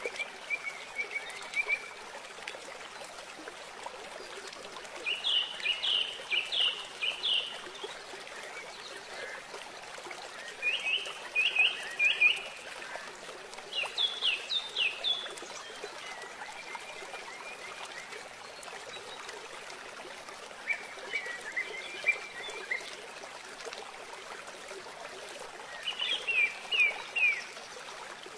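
A bird calling in repeated bursts of three to five quick, descending notes, a burst every few seconds, over a steady hiss.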